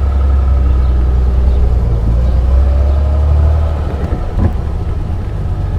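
1955 Mercedes 300 SL Roadster's 3.0-litre straight-six running as the car drives, with a steady low rumble. The engine note climbs a little about three seconds in, then the sound eases off about four seconds in.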